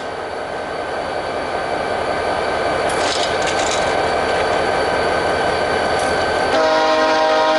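VIA Rail passenger train approaching, its rumble growing steadily louder; about six and a half seconds in, the locomotive's horn sounds and is held.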